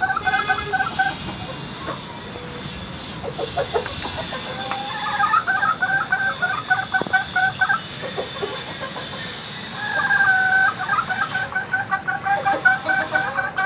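Aseel chickens clucking in quick runs of repeated notes, about three a second: a short run at the start, a longer one from about five to eight seconds in, and another from about ten seconds in to the end. A few faint knocks fall between the runs.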